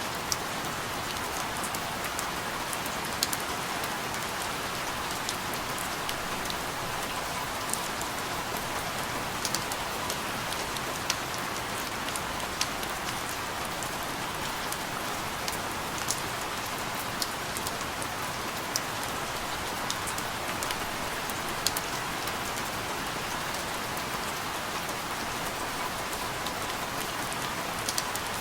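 Steady rain falling, an even hiss with many scattered sharp drip ticks of individual drops striking a surface.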